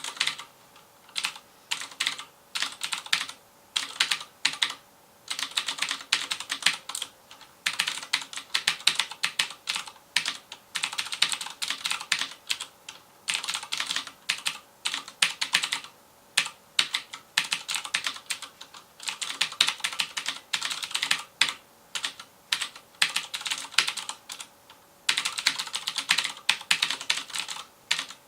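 Fast typing on a FILCO Majestouch Convertible 2 mechanical keyboard with Cherry MX Blue switches: rapid crisp clicks in runs of a second or two with short pauses between.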